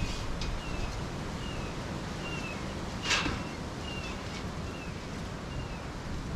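A bird repeating a short, downward-slurred chirp roughly once a second over wind rumbling on the microphone, with one brief scratchy rustle about three seconds in.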